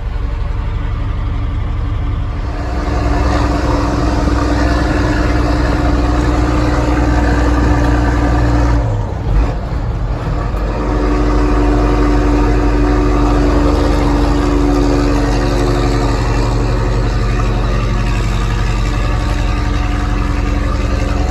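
International 4900 truck's diesel engine running steadily. It gets louder about two seconds in, dips briefly about nine seconds in, then picks up again and runs on steadily.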